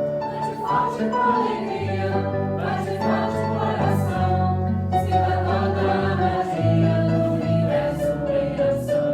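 A group of voices singing a Santo Daime hymn in march time, over low held instrumental notes. Short shaken-rattle strokes mark the beat at regular intervals.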